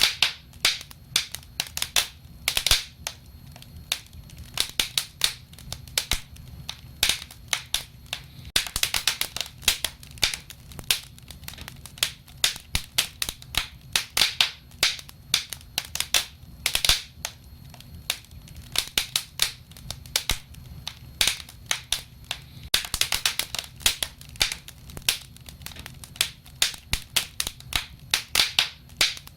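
Wood fire crackling and popping: a steady run of irregular sharp snaps, thicker in clusters, over a low soft rumble of the flames.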